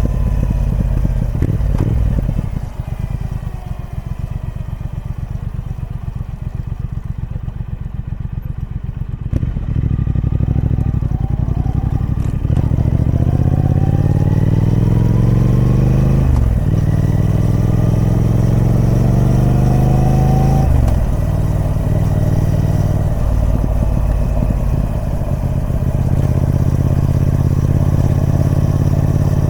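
Triumph Speed Twin 1200's parallel-twin engine through its stock exhaust: it falls back to a low, steady run, then pulls hard with the pitch rising through two quick gear changes before settling into a steady cruise.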